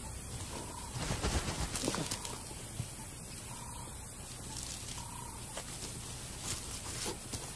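African wild dogs digging and scratching at den soil as they enlarge the tunnels, with a rougher burst of scrabbling about a second in. Faint short bird calls repeat in the background.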